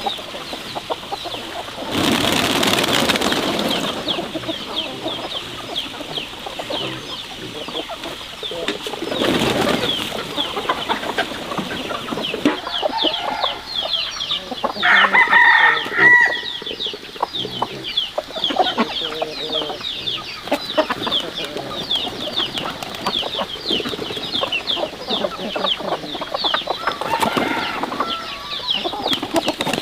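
A flock of chickens clucking, with a steady stream of quick, high cheeping throughout and one louder call about fifteen seconds in. Two short bursts of noise come about two and nine seconds in.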